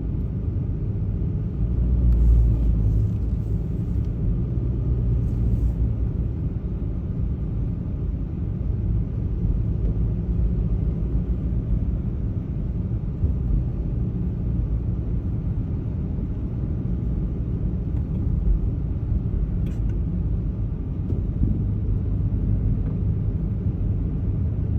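Steady low rumble of a car's engine and tyres heard from inside the cabin while driving on a snow-covered road, swelling a little a couple of seconds in, with one faint click later on.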